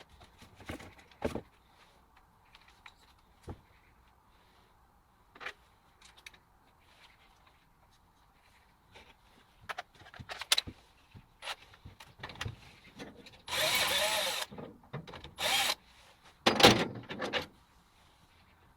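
Scattered knocks and clicks of things being handled, then three short, louder bursts of a tool or machine near the end, each lasting about a second.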